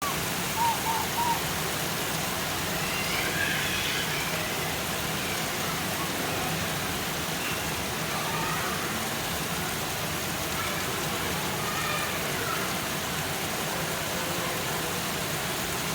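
Steady rain falling, an even hiss. A few short, faint higher sounds rise over it, the loudest about a second in.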